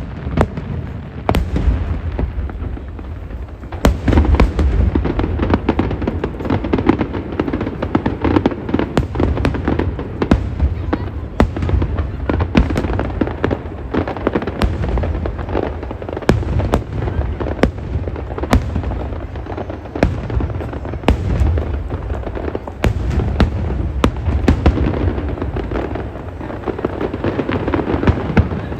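Aerial fireworks going off in quick succession: many sharp bangs and cracks over a continuous low rumble of booms.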